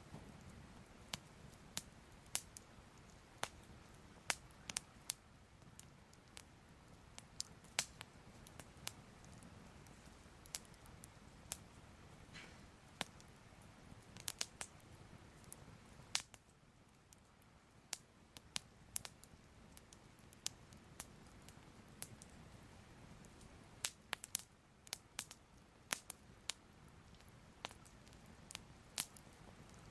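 Fire crackling softly: sharp, irregular pops and snaps over a low steady hiss.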